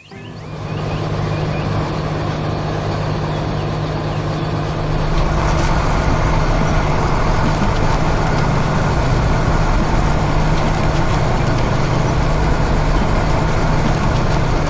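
Heavy vehicle engine running steadily, with a low hum under a noisy wash. It grows louder over the first second and steps up again about five seconds in.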